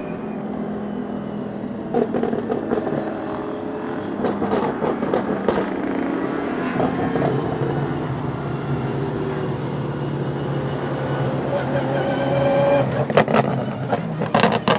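De Tomaso P72 prototype's 6.3-litre naturally aspirated V12 running at a steady, moderate pace, without hard revving. Scattered sharp clicks and knocks sit over it, bunched near the end.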